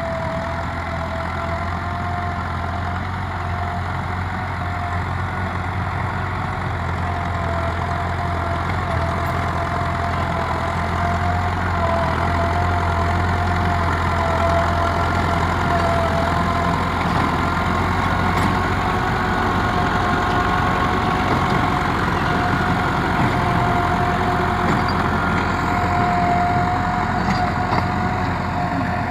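Massey Ferguson 385 tractor's diesel engine running steadily at a constant speed, with a steady whine over the low engine sound.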